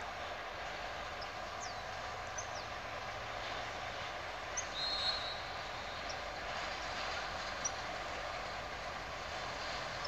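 Distant freight train drawn by two G22UB diesel-electric locomotives approaching, a steady rumble with a faint low engine drone. A few short bird chirps over it.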